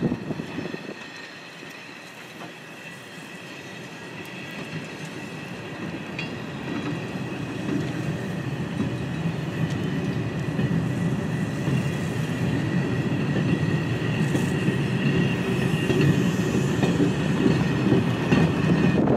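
A train rolling by on the rails, its wheels running with a clickety-clack and a steady high squeal. It starts fairly quiet about two seconds in and grows steadily louder as it comes closer.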